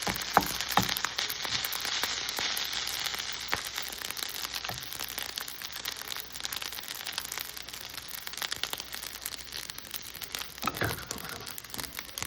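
Fried rice sizzling steadily in a hot pan, with a few sharp knocks near the start and again about eleven seconds in.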